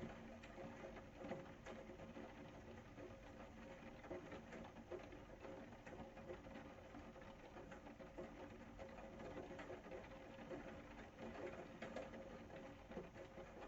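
Faint, steady rain, a dense irregular pattering of small drop ticks, with a low steady hum underneath.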